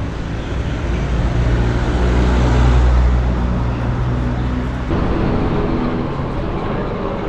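A motor vehicle's engine in street traffic, a low hum that grows louder to a peak about halfway through and drops away about five seconds in, over a steady hiss of street noise.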